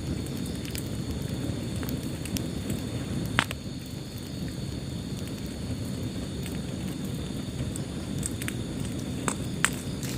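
Wood fire burning in a fireplace: a steady low rush of flame with scattered sharp crackles and pops. The loudest pop comes about a third of the way in, and a few more come near the end.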